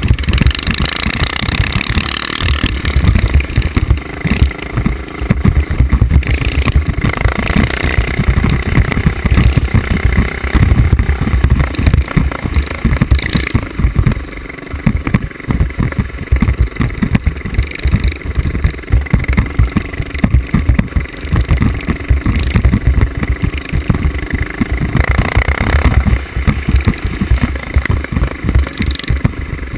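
Mini bike engine running hard off-road, revving up and easing off over and over with a choppy, pulsing exhaust note, and dropping away briefly a few times.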